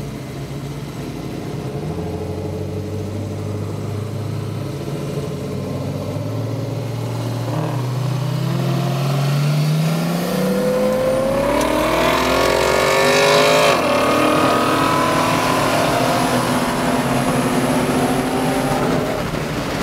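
Turbocharged RB30 straight-six in a Holden VL Commodore, heard from inside the cabin, accelerating on track. It runs steadily at first, then the revs climb for several seconds and grow louder, drop suddenly once about two-thirds of the way through, and then hold steady.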